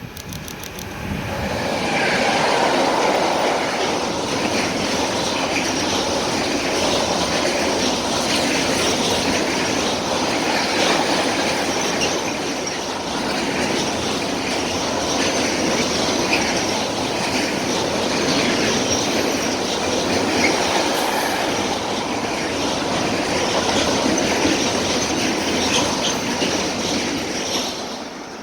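Container freight train led by a class 386 electric locomotive passing close by. A long steady rumble of wagons with repeated clacking of wheels over the rail joints, rising about two seconds in and dropping away near the end.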